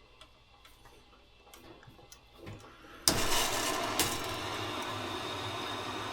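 A few light clicks and knocks, then about three seconds in water suddenly comes on at the faucet and runs steadily.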